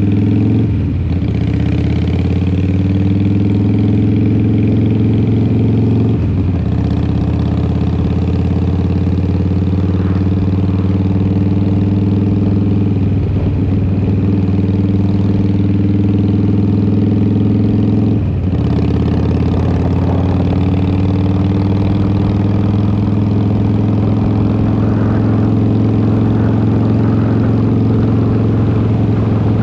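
Harley-Davidson Twin Cam 88 V-twin running through a Vance & Hines exhaust while the motorcycle is ridden at steady speed. The engine note dips briefly about four times, then returns to its steady pitch.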